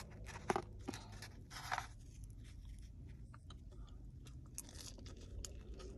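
A person biting into and chewing food: faint crunching and scattered small mouth clicks, a little louder in the first two seconds.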